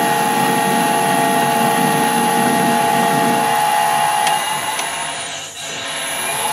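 Metal lathe running under power during screw cutting, a steady machine hum with its gear train whining. About four and a half seconds in it winds down and stops, then runs up again near the end, as the lathe is stopped at the end of a pass and restarted to bring the tool back with the half nuts still engaged.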